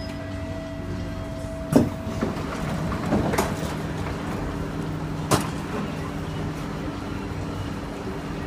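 Steady hum of a stationary SMRT C151A train car's onboard equipment and air-conditioning, with several held tones; one higher tone stops about two seconds in. Two sharp knocks, one about two seconds in and one about five seconds in, with some rustling between them.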